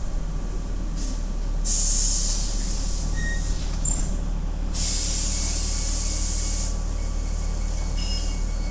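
City bus engine running with a steady low rumble, broken by two bursts of compressed-air hiss from the bus's air system: a short one about two seconds in and a longer one of about two seconds near the middle. A few faint short squeaks sound over it.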